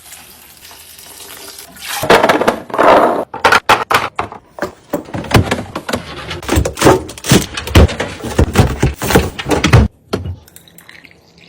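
Refrigerator being restocked: drinks and plastic containers set down and clicked into place on the shelves, a run of irregular clinks and thunks after a short rush of noise about two seconds in.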